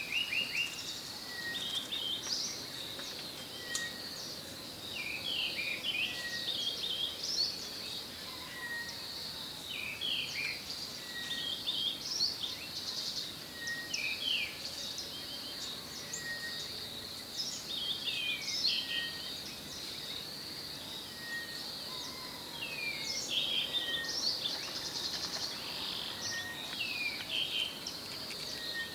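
Several wild birds chirping and twittering over a steady high insect drone, with one short call repeated about every two seconds.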